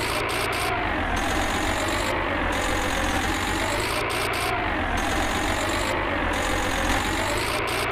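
Heavy vehicle engine idling steadily, its sound repeating in an even cycle about every two seconds.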